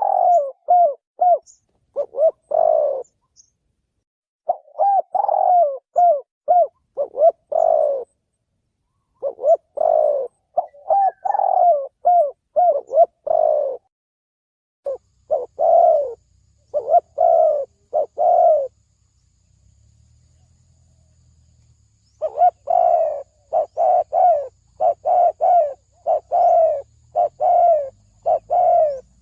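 Spotted dove cooing in repeated phrases of short notes. The bouts come a second or so apart, with a longer pause about two-thirds of the way through. This is a decoy call used to lure doves.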